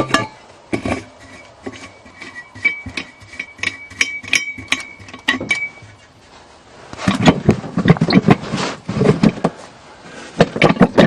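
Hand work on metal parts under a truck's hood: a run of light metallic clicks and clinks with a faint ringing tone through them for about six seconds, then a busier stretch of rustling and knocking.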